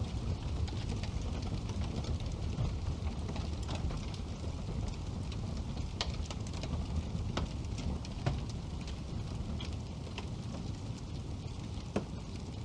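Wood fire burning in a fireplace: a steady low rumble of flames with scattered sharp crackles and pops, a few louder ones midway and one near the end.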